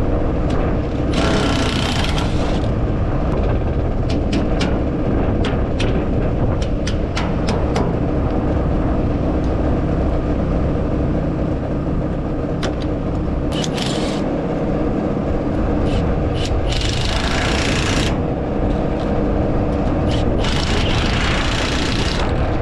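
Harvesting machine running steadily, heard from inside the operator's cab, with a constant engine hum, scattered light ticks and a few bursts of hiss lasting a second or two each.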